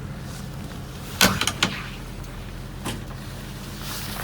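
A vehicle door shuts with a loud clunk about a second in, followed by a few lighter knocks, over a steady low hum of the vehicle.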